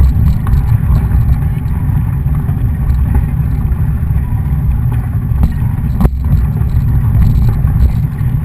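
Wind buffeting the microphone, heard as a steady low rumble, with one sharp click about six seconds in.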